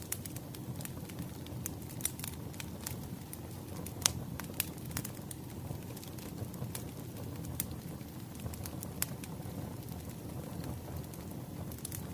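Wood fire crackling: irregular sharp pops and snaps over a steady low rumble of burning logs, with one louder pop about four seconds in.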